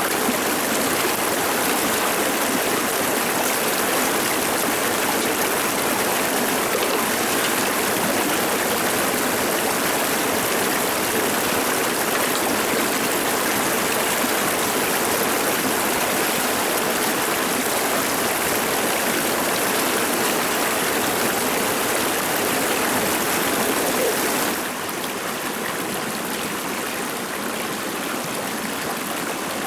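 Stream water running, a steady rushing that turns a little quieter about 24 seconds in.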